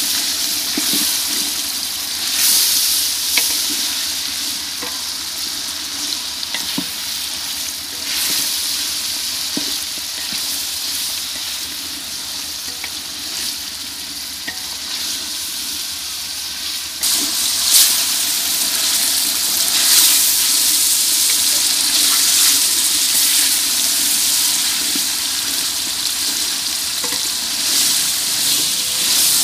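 Chicken pieces sizzling as they fry in oil and masala in a large aluminium pot, stirred and scraped with a wooden spatula. The sizzle grows louder a little past halfway.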